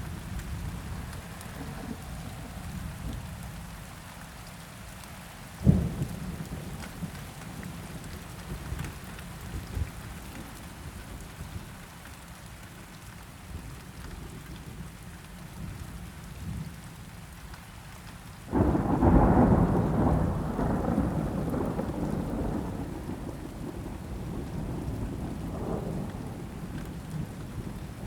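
Steady rain with thunder: a single sharp low thump about six seconds in, then a loud thunderclap starting suddenly about eighteen seconds in that rumbles on and slowly fades.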